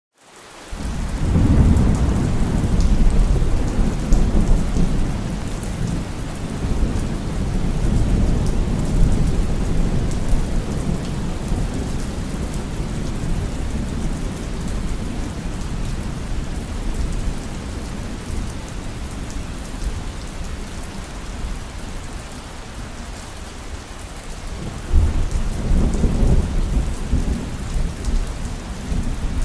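Heavy rain falling steadily with rolling thunder. The sound fades in at the start, a long low rumble builds over the first seconds and eases off through the middle, and a fresh thunderclap breaks in sharply about 25 seconds in.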